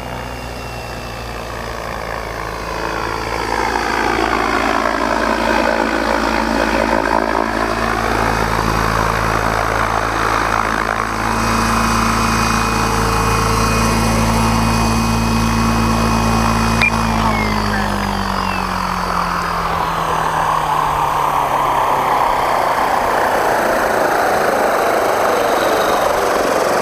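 Electric RC helicopter (Assault 700 with 750 mm main blades and a 490kv motor) running: a steady drone of motor and rotor blades whose pitch sweeps down and back up early on. About two-thirds of the way through, the drone drops in pitch and gives way to a rougher, noisier sound.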